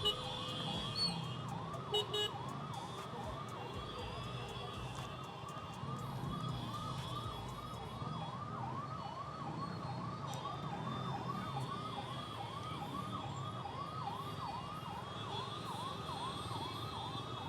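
Emergency vehicle siren on a fast yelp, its pitch rising and falling about two to three times a second without a break, over the low rumble of idling traffic.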